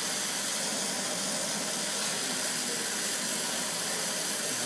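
Brazing torch flame hissing steadily as it heats a copper joint.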